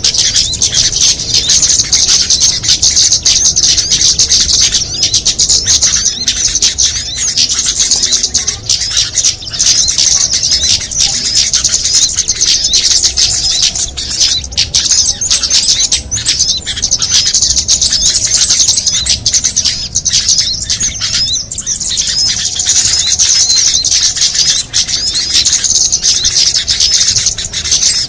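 Dense, unbroken high twittering and chirping of many small songbirds layered together: a mixed bird-lure (pikat) recording made to draw in small birds. The chatter thins briefly a little after 20 seconds, then fills in again.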